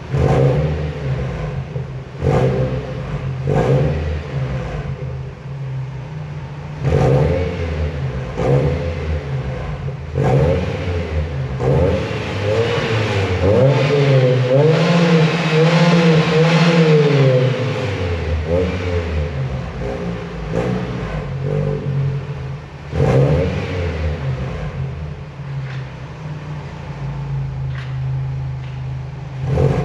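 Peugeot 206 RC's 2.0-litre four-cylinder engine heard through a Janspeed exhaust, idling and blipped repeatedly in short revs. One longer rev climbs, is held for several seconds, then falls back to idle a little past the middle.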